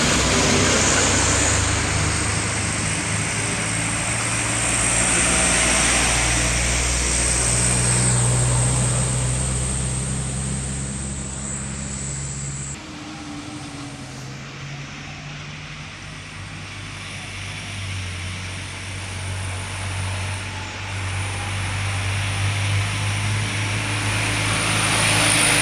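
Heavy trucks' diesel engines running under load on a steep climb, with one truck fading away about halfway through and the next growing louder toward the end.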